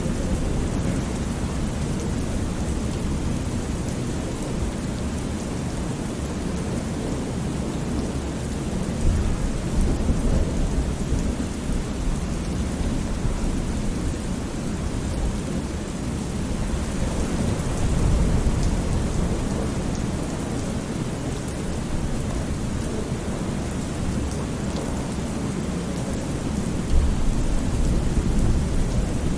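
Thunderstorm ambience: steady heavy rain with low rolling thunder that swells up three times.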